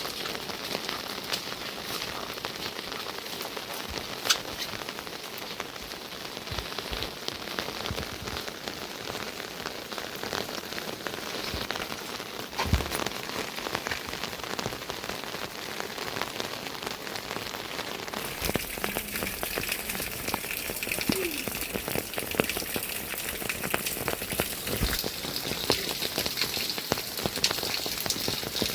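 Steady rain falling, with many separate drops striking close by. About two-thirds of the way through, the rain abruptly takes on a brighter, hissier sound.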